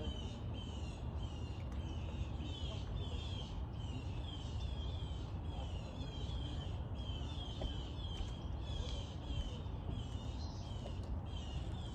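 A small bird chirping over and over, short falling chirps about twice a second, over a steady low rumble.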